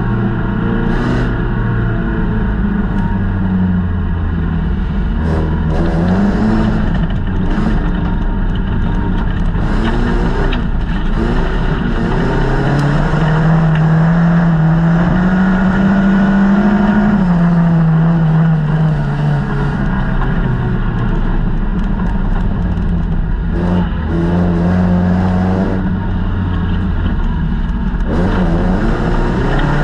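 Folkrace car's engine heard from inside the stripped cabin while racing, revving up and falling back as the driver accelerates and brakes through the corners, with occasional knocks from the car.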